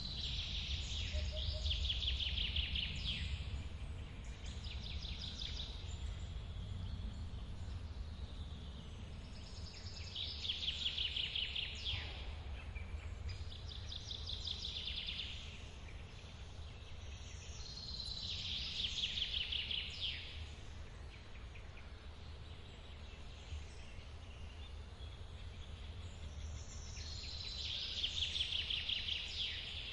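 A forest waterfall running as a steady low rumble, with a songbird singing the same short song four times, about every eight or nine seconds; each song is a quick series of rapid notes that falls slightly in pitch.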